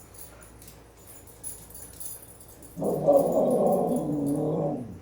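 Husky giving one drawn-out, whining "talking" vocalisation about two seconds long, starting near the middle, the sound of an impatient dog eager to go out. Faint light jingling before it.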